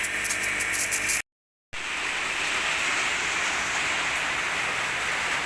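A motor hums with crackly clicks, then cuts off abruptly about a second in. After a half-second of silence, a steady hiss of water spraying from a jet cleaner's hose follows.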